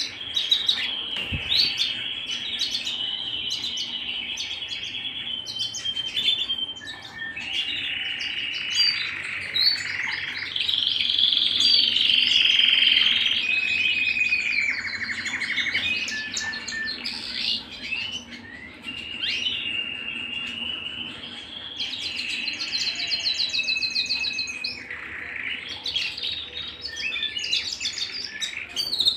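Domestic canary singing a long, unbroken song of rolling trills and held high notes mixed with quick chirps, loudest a little under halfway through.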